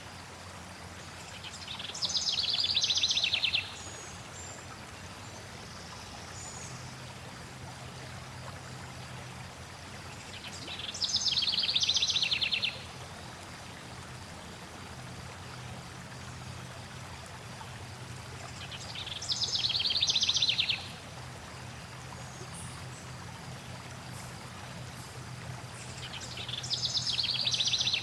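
Steady flowing water, with a songbird singing the same short, rapid trilled phrase four times, about every eight seconds. Each phrase swells in loudness and then stops abruptly.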